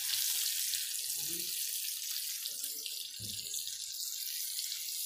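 Masala-stuffed green chilies frying in hot oil in a pan, a steady sizzle as they finish cooking.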